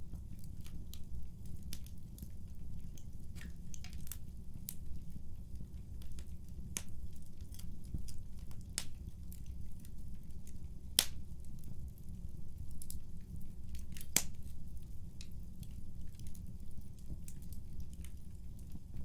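Wood fire crackling in a fireplace: irregular sharp pops and snaps over a steady low rumble of burning. The two loudest pops come about eleven and fourteen seconds in.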